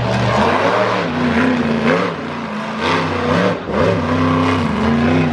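Monster truck engine revving hard over and over, its pitch climbing and dropping about once a second.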